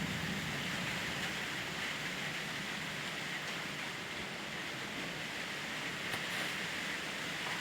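Heavy wind blowing, a steady rushing noise without pauses or gusts that stand out.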